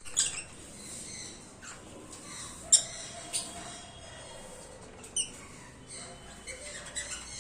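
Birds giving short, sharp high-pitched calls, several times; the loudest come about a quarter second in, near three seconds in and about five seconds in.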